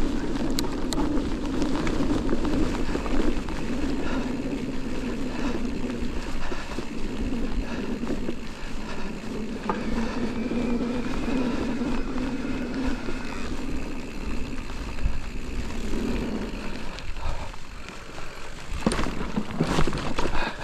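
Riding noise from a Santa Cruz Vala electric mountain bike on a trail descent: tyres rolling over the trail surface and the bike rattling, heard through a GoPro. It stays steady, with a few sharp clatters near the end.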